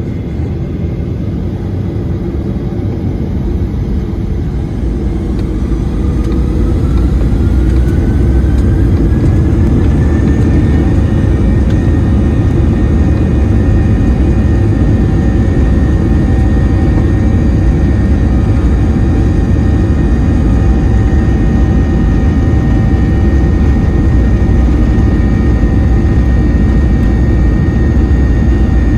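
Boeing 737 jet engine roar: a loud low rumble that builds over the first several seconds, with a whine that rises in pitch from about five to ten seconds in and then holds steady as the engine spools up.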